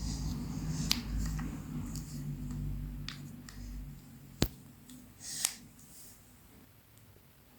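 Small plastic building blocks clicking as they are handled and pressed together: a few scattered clicks, the loudest a single sharp one about four and a half seconds in, with a low hum that dies away about four seconds in.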